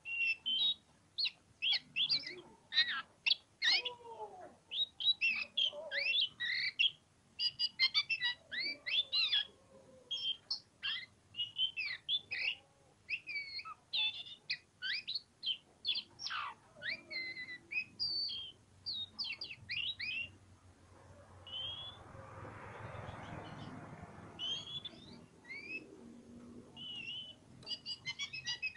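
Oriental magpie-robin (kacer poci) singing hard in rapid, varied whistled phrases of short sweeping notes. The song pauses for a few seconds past the middle, when a soft rushing noise comes up.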